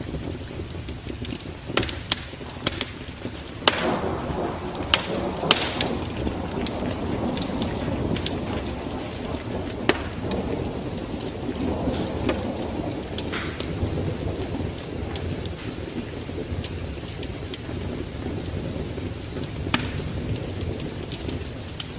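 Wood fire in a fireplace crackling, with irregular sharp pops and snaps over a steady low rumble that swells a few seconds in and again about halfway through.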